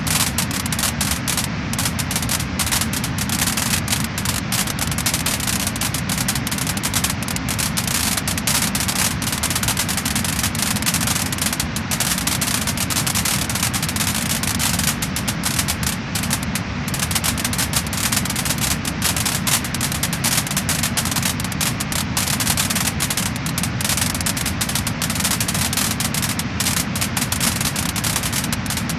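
Wood-burning fire crackling and popping: a dense run of quick, sharp crackles over a steady hiss.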